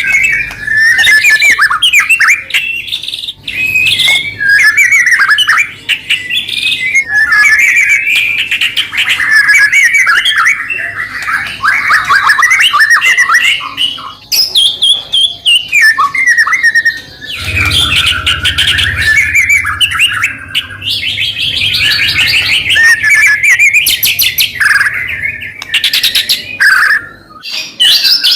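White-rumped shama (murai batu) singing non-stop: a long, varied run of loud whistles, rapid trills and chattering phrases with only brief pauses.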